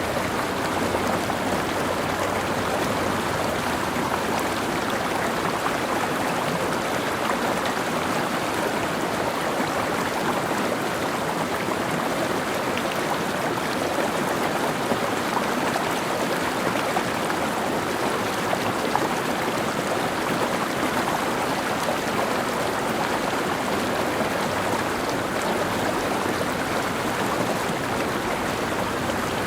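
Mountain stream flowing steadily over rocks: an even, continuous rush of water.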